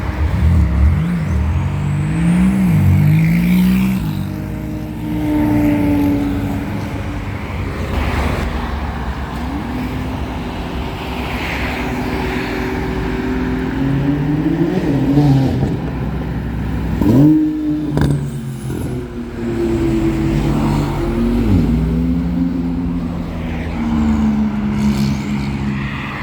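A sports car engine idling, blipped several times so the pitch jumps up and falls back, the biggest rev about two-thirds of the way through.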